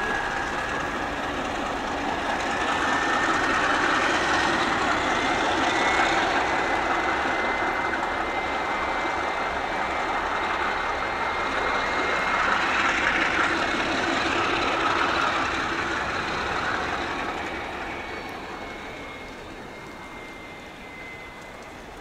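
Pair of MLW diesel locomotives moving along the track while clearing snow, with a steady high-pitched whine over the running noise. It swells twice, then fades away near the end.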